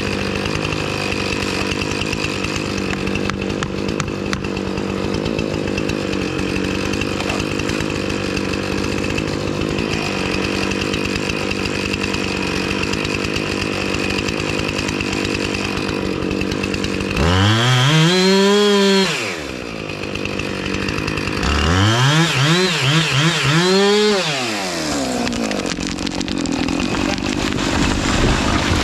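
A chainsaw idling steadily, then revved up to full speed and back down about seventeen seconds in. Later it is revved again for a few seconds, with several quick blips of the throttle.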